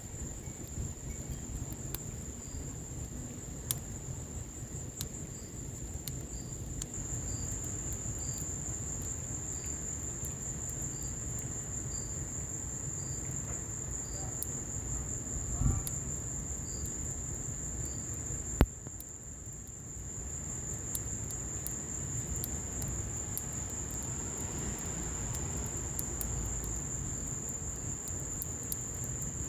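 Wood fire crackling in an outdoor fireplace, with scattered sharp pops, under a steady high-pitched insect trill; one louder sharp pop about eighteen and a half seconds in.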